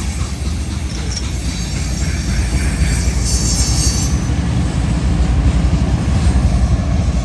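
A long freight train rolling past close by: a steady low rumble of wheels on the rails.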